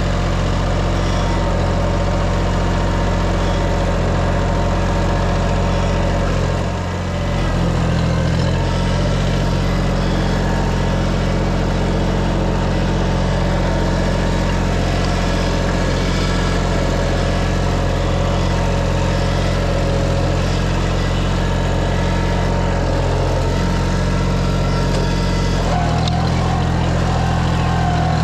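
Tractor engine running steadily, briefly dropping in level about seven seconds in and changing note near the end.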